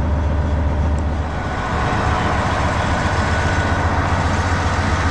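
Heavy equipment engine running steadily with a low drone; its sound changes slightly about a second and a half in.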